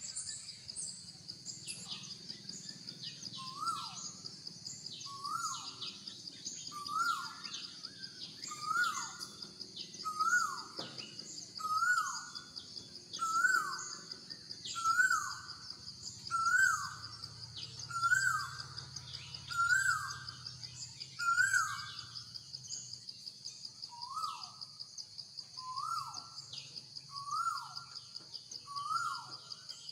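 A bird calling over and over, a short rising-then-falling note about every second and a half, with a short pause partway through. Under it runs a steady, high, buzzing insect trill.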